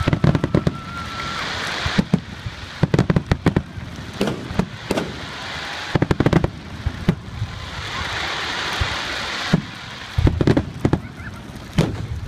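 Fireworks going off in rapid volleys of sharp bangs and crackles, several clusters a couple of seconds apart, with a steady hiss between the volleys.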